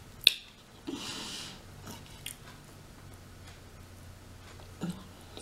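Close-up eating sounds of someone chewing rotisserie chicken: a sharp mouth click, a short hiss about a second in, then a few soft wet clicks and a small knock near the end.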